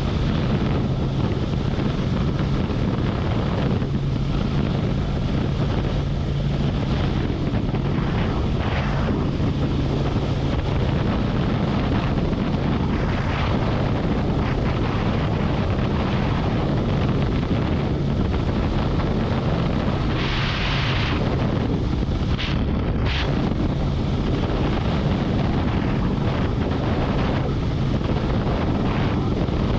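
Wind rushing over the microphone on a Harley-Davidson Road Glide motorcycle at highway speed, with the V-twin engine running steadily underneath. A brief louder hiss comes about twenty seconds in.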